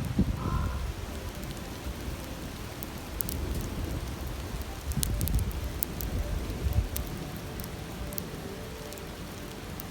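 Wood campfire crackling, with scattered sharp pops, over the steady rushing of a stream.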